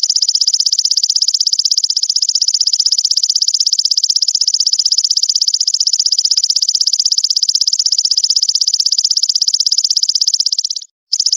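A high, rapid buzzing trill, the continuous 'brem' rattle used in a masteran track for training songbirds. It cuts out briefly near the end, then starts again.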